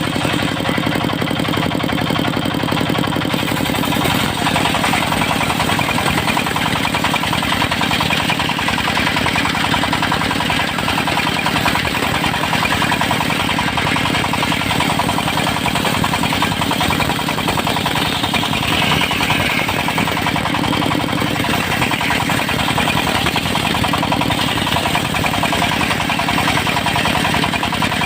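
Engine-driven mobile circular sawmill running steadily, with a harsher, busier edge coming in about four seconds in.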